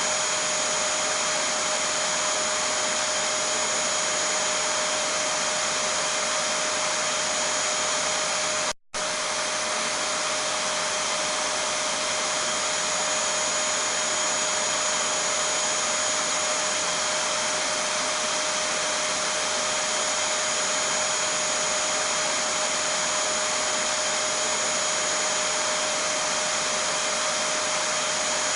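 Vacuum cleaner running steadily: an even rushing noise with a constant whine over it. It cuts out for a split second about nine seconds in, then resumes unchanged.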